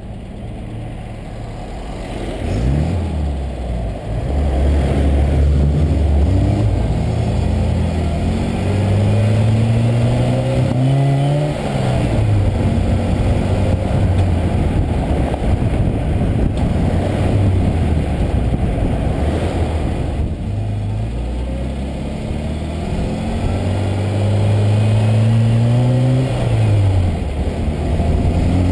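Classic Mini Cooper S's A-series four-cylinder engine pulling through the gears on the road: the revs climb under acceleration and drop sharply at each gear change, several times, with steadier cruising in between, over a constant rush of road noise.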